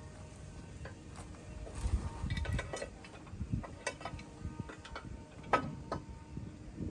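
Scattered metallic clinks and knocks, several with a short ring, at irregular intervals over a low background rumble.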